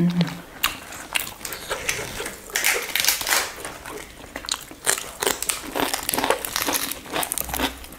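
Close-miked eating: chewing and biting with many short, crisp crunches, and crinkling of fresh lettuce leaves as they are handled and bitten, along with chewing of roast chicken.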